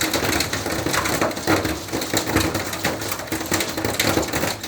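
Torrential rain and hail pelting down: a loud, dense clatter of many irregular small impacts over a steady rush.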